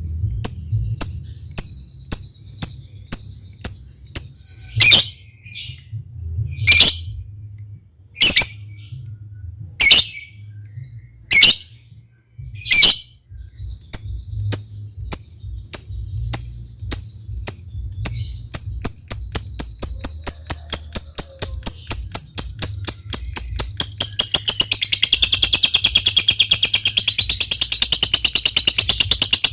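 Lovebird calling: a steady run of short, sharp high ticks (the "ngetik"), with a few louder calls among them, speeding up until near the end they run together into a continuous long chattering trill (the "ngekek panjang"). A faint low hum lies beneath.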